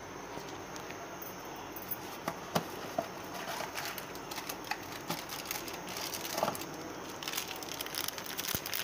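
Onion, chili and ginger paste sizzling and crackling in hot oil in a steel wok, with a few sharper pops two to three seconds in and the crackling growing denser toward the end.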